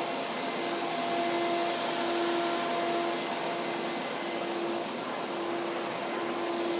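Water-damage drying equipment (air movers and dehumidifiers) running together: a constant rush of blown air with a steady hum underneath.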